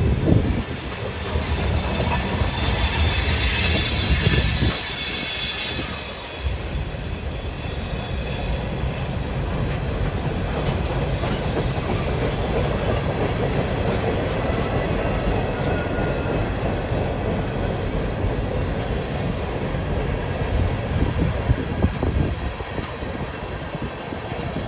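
Wheeling and Lake Erie freight cars rolling slowly past on the rails. High-pitched wheel squeal is heard from about two to six seconds in, over the steady rolling of the wheels.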